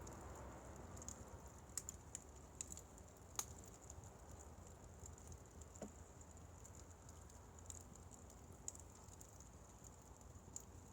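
Firewood fire burning quietly: faint, irregular crackles and pops from the burning logs, the sharpest about three and a half seconds in.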